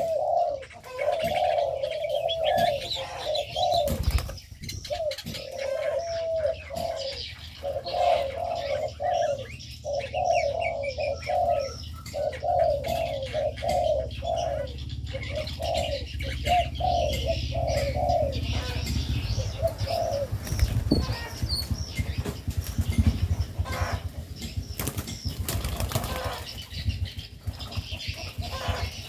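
Aviary birds: one bird repeats a low call note several times a second for about the first two-thirds, with fainter high chirps over it. Then the calling stops and wing flapping and rustling follow.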